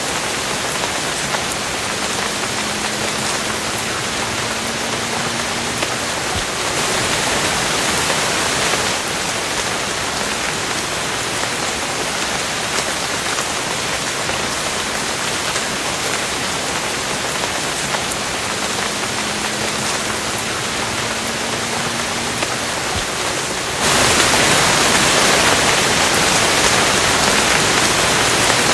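Steady rain pattering on a surface. It swells briefly about seven seconds in, then grows heavier and louder for the last few seconds. A faint low hum rising slightly in pitch can be heard twice underneath.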